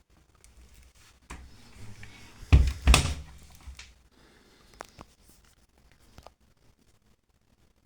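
A Beko washing machine running early in its wash cycle, with a short stretch of rumbling and two heavy thuds a little under half a second apart, followed by a few light clicks.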